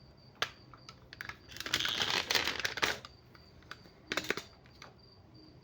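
Plastic clicks, rattles and scraping of a camera being fitted onto a tripod: a few sharp clicks, a rubbing, scraping stretch from about one and a half to three seconds in, then another short cluster of clicks about four seconds in.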